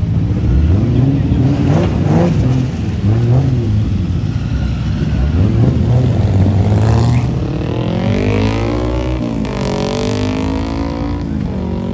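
Performance car engines revving and accelerating away: a few short throttle blips, then two long pulls climbing in pitch, each cut off by a sudden drop as the car shifts up.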